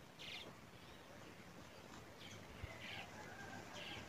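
Faint bird calls in the background: a few short, high chirps scattered over quiet room tone.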